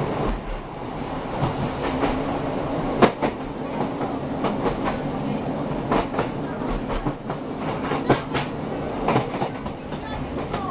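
Diesel passenger train running along the line, heard from inside the carriage: a steady rumble and hum with irregular sharp clicks from the wheels over the rails.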